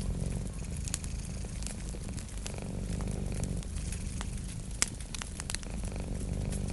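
A cat purring steadily, with a wood fire crackling over it in scattered sharp pops, the loudest about five seconds in.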